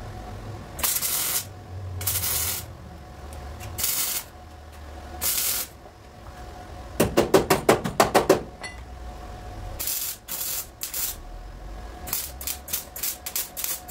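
Short bursts of hissing, four in the first six seconds and more after ten seconds, with a fast run of about a dozen sharp taps about seven seconds in.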